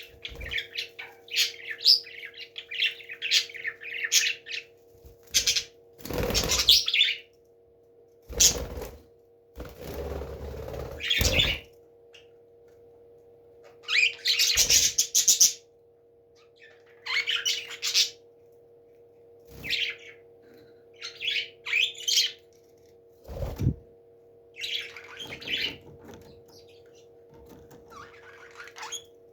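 A parrot chirping in short repeated bouts, with several knocks or thumps in between, over a steady low hum.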